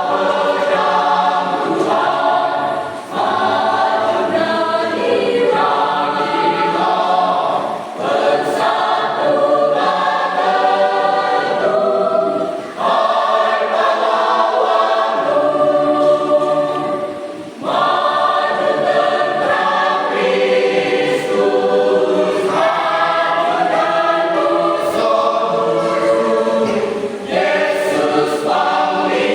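Church choir singing a hymn in parts, in sustained phrases with short breaths between them.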